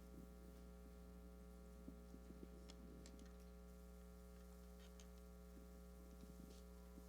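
Near silence with a steady electrical mains hum and a few faint, scattered small clicks.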